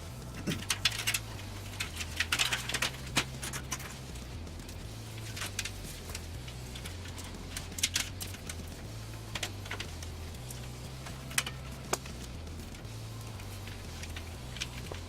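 Small clicks and light metallic rattles of computer parts and hardware being handled and fitted, in scattered bunches, most of them in the first few seconds. Quiet background music with a stepping bass line plays underneath.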